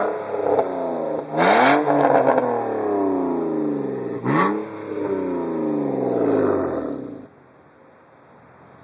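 2000 BMW 328i's inline-six engine through a muffler-delete exhaust, revved sharply three times, the pitch sliding slowly back down after each blip. The sound cuts off about seven seconds in.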